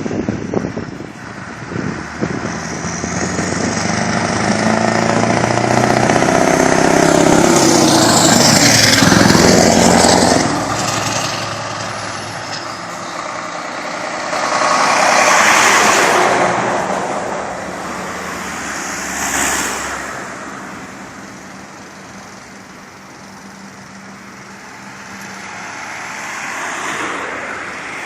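Scania R500 V8 diesel truck pulling away and accelerating, its exhaust rattling; the engine climbs in pitch, drops at a gear change about ten seconds in, surges loudly twice more, then fades as it drives off.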